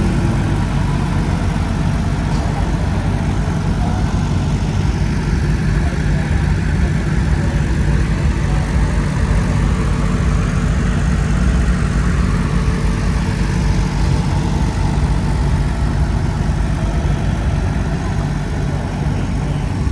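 The supercharged 427 V8 of a 1958 Ford burnout truck idling steadily with a heavy rumble.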